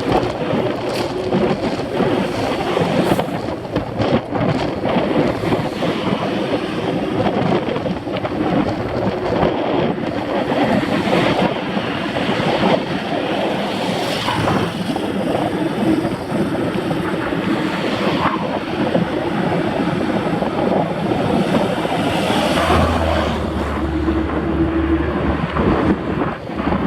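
Wind buffeting the microphone while riding a mountain bike, with tyre noise and short knocks and rattles over the ground. A low steady hum joins for a few seconds near the end.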